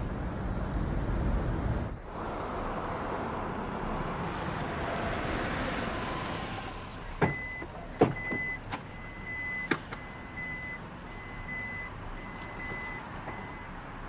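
Car running with steady road noise, then a repeating high warning beep from the car, about two beeps a second, starting about seven seconds in, with a few sharp clicks.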